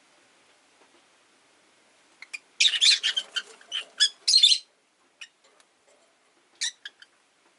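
Rosy-faced lovebirds calling: about two seconds in, a loud burst of rapid, harsh chirps lasting about two seconds, then a few single short chirps.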